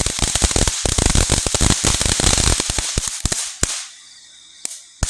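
Safe-and-sane ground firework crackling in a dense, rapid string of pops. About three and a half seconds in it thins out to a few separate bangs, the last one near the end.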